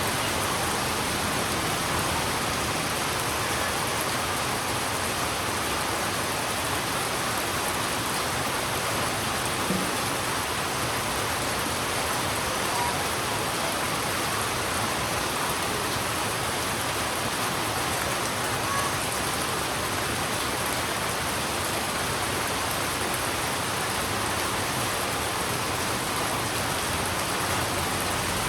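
Heavy rain falling steadily on a road, a dense, even hiss with no letup.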